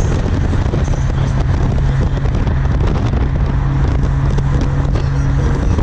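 Car running on the road: a steady low engine drone with road and wind noise, and some crackling on the microphone.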